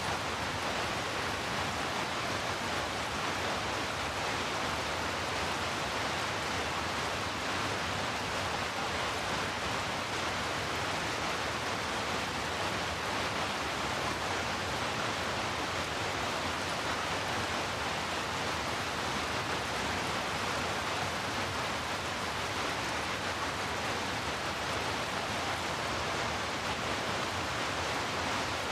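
Steady rain, an even hiss that holds the same level throughout.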